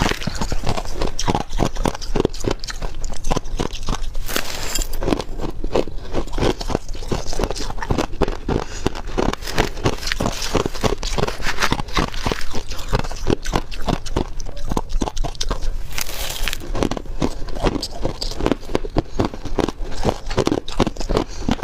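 Close-up crunching and chewing of freezer frost ice: a dense, continuous run of crisp crunches, with a brief hissing scrape twice.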